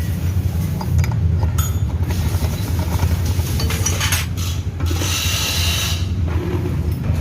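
Hand tools working on a scooter's CVT transmission: small metallic clicks and ratcheting, with a burst of hiss about five seconds in, over a steady low hum.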